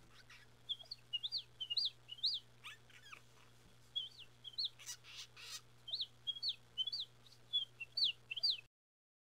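Birds chirping: short, quick upward-sweeping chirps in little groups of three or four, over a faint steady hum, cutting off abruptly near the end.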